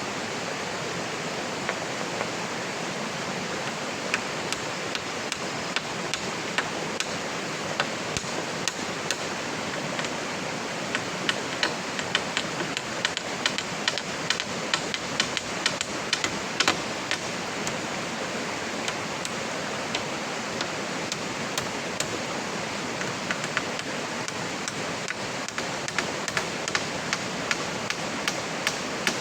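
Steady heavy rain, with many sharp drop hits ticking irregularly over the hiss.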